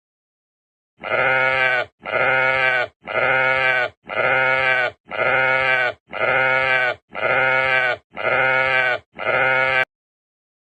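Sheep bleating nine times in a row, about once a second, each call just under a second long and exactly alike, as if one bleat were repeated.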